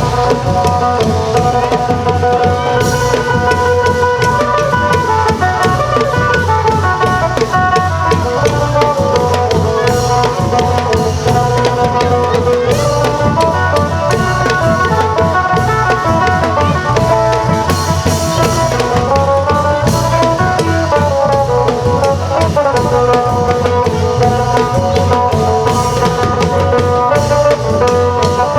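Isan long-drum (klong yao) ensemble playing a dense, steady drum rhythm under a busy melody on the phin, the Isan lute.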